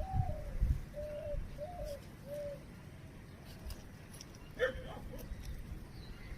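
Puppies whimpering: a run of short, high, arching whines, then a sharper yelp about four and a half seconds in. Low rumbling noise comes in at the start.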